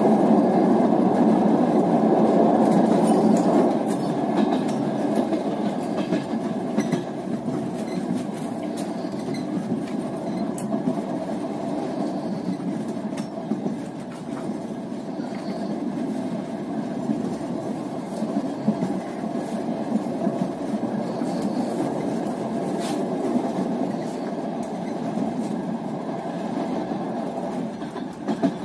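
Rolling noise of a passenger train carriage heard from inside, with the faint clickety-clack of wheels over rail joints. It is louder for the first few seconds while crossing a steel truss bridge, then settles into a steadier rumble.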